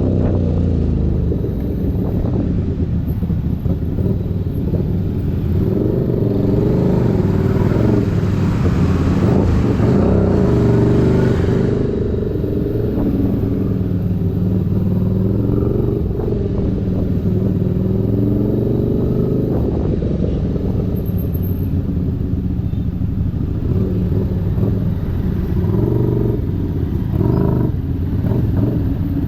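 Keeway SCR 250's 250 cc V-twin engine breathing through a Racefit free-flow aftermarket exhaust, running with engine speed repeatedly rising and falling.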